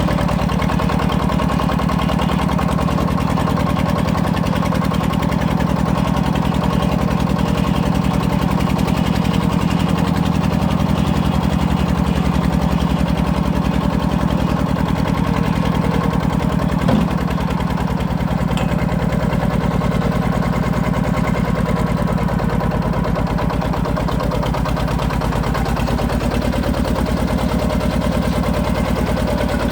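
Walk-behind power tiller's single-cylinder diesel engine running steadily at idle, driving the hydraulic log splitter. A single short click sounds about halfway through.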